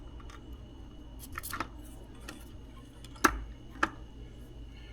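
A few sharp clicks and taps of small metal tools or parts being handled on a workbench, the loudest a bit past the middle, over a low steady hum.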